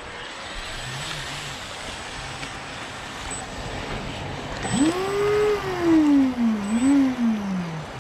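Pro Boat River Jet radio-controlled jet boat's electric motor whining up in pitch about five seconds in, then winding down, up and down again as the throttle is worked. Steady rushing river water runs underneath.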